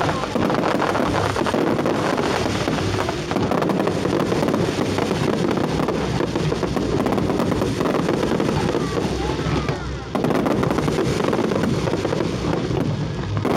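Fireworks going off in a continuous barrage of bangs and crackles, with crowd voices and wind on the microphone underneath.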